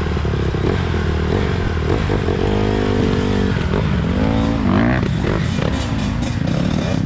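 Dirt bike engines running and revving. Their pitch holds steady and then dips and climbs again about halfway through.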